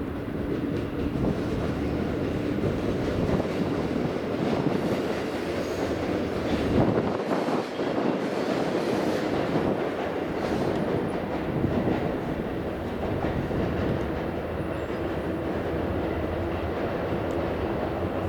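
Sanyo Shinkansen train running along the platform at Himeji Station: a steady rail rumble of wheels and running gear, with a faint steady hum.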